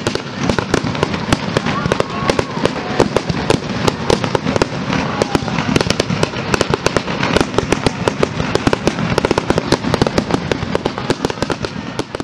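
Aerial fireworks bursting in quick succession, a dense, continuous run of bangs and crackles with no pause.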